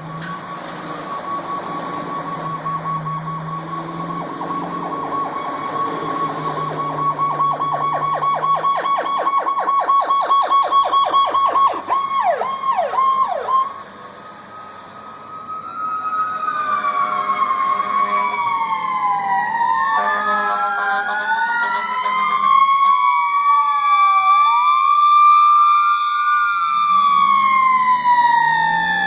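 Fire apparatus sirens responding: an electronic siren holds a steady tone, speeds into a rapid yelp and drops away in a few falling sweeps. After a short lull, sirens wail up and down, two of them overlapping out of step.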